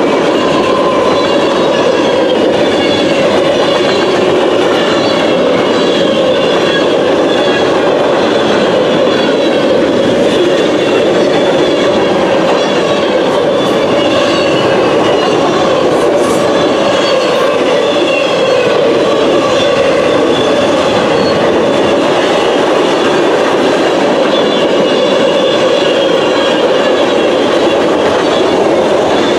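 Freight cars of a long train rolling past close by: a loud, steady noise of steel wheels on the rails, with a faint wavering wheel squeal above it.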